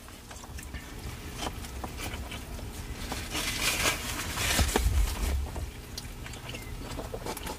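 Close-up eating sounds from people chewing and biting into a burger and a torta sandwich: a run of small mouth clicks and smacks, loudest around the middle, with a short low rumble about two thirds of the way through.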